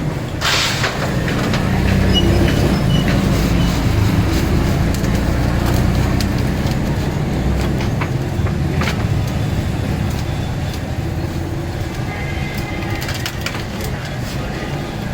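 Steady mechanical drone, louder through the first half, with scattered clicks and clinks.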